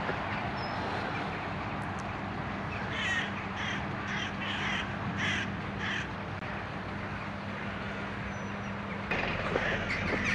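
A bird calling six times in about three seconds, over steady background noise of distant city traffic.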